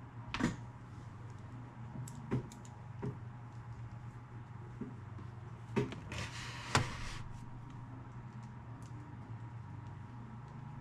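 Scattered light knocks and clicks of stereo parts being handled during reassembly, with a short scrape about six seconds in, over a steady low hum.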